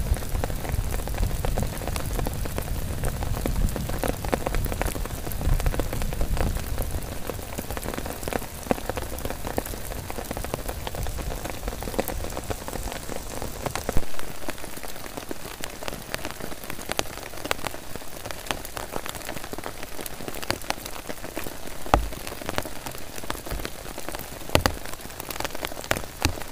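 Heavy rain falling on a tent and the surrounding grass: a dense, steady hiss with many sharp individual drop hits. A low rumble under it in the first few seconds fades out, and the low end drops away abruptly about halfway through.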